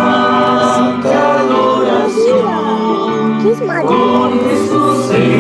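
A group of voices singing a hymn together.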